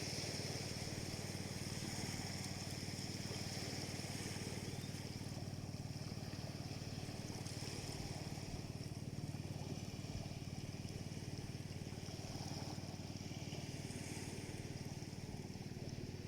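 Steady low hum of a small engine running at an even pace, with a constant hiss over it.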